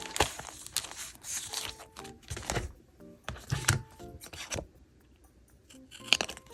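Paper being handled and torn in short bursts of rustling and tearing, over soft background music. The sounds thin out about five seconds in, and another rustle comes just after six seconds.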